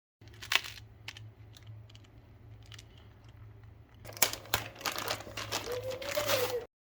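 Packaging crinkling and rustling as it is handled: a few separate crackles at first, then denser, louder crinkling from about four seconds in.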